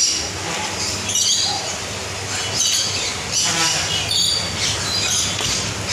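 Many caged birds in a mixed aviary chirping and squawking at once, short high calls overlapping one after another, over a steady low hum.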